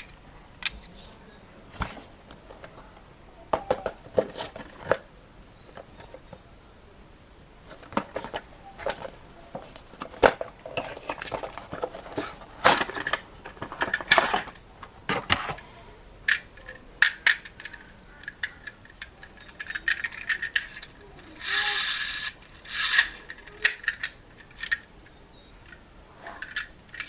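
Small hard objects being handled: irregular clicks, taps and clatter with short rustles, and a longer rustling burst about two-thirds of the way through.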